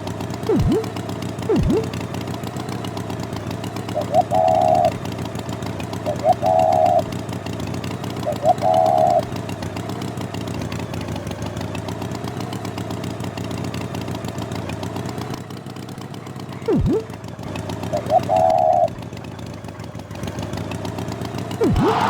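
Engine running steadily, with four short higher-pitched tones sounding over it and a few quick falling swoops.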